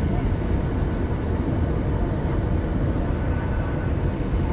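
Steady low rumble of a Boeing 737-700's CFM56 jet engines and airflow heard from inside the passenger cabin, with no distinct events.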